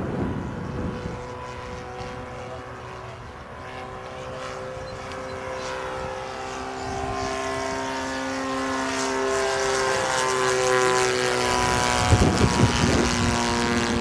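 Engine and propeller of a giant-scale radio-controlled Cessna 150 model in flight, droning steadily and growing louder as the plane comes nearer, its pitch sliding slowly. A brief rough gust of noise comes near the end.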